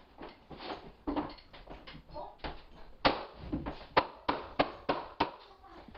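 Hardwood floorboard being knocked tight into place against a transition strip: a run of sharp, irregular wooden knocks, a few a second.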